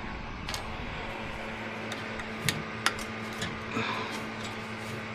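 A steady low mechanical hum under a few sharp clicks and light taps of small parts and tools being handled, the loudest about two and a half and three seconds in.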